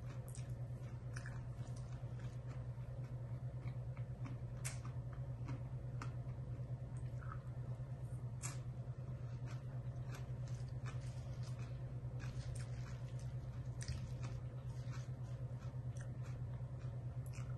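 A person chewing a crunchy raw salad of kale, lettuce and radish close to the microphone, with irregular crisp crunches and a steady low hum underneath.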